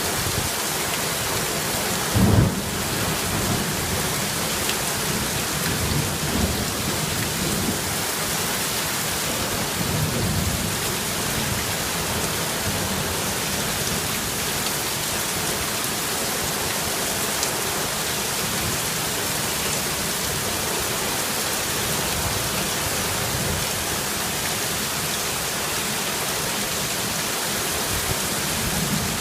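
Steady heavy rain falling, a constant hiss, with a short low boom of thunder about two seconds in and softer low rumbles later on.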